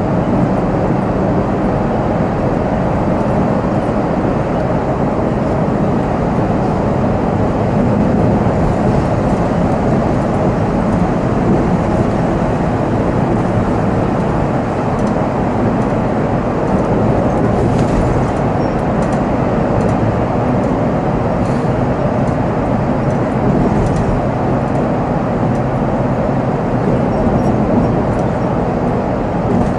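Volvo B7R coach running on the road, heard from the driver's cab: a steady mix of engine hum and road noise.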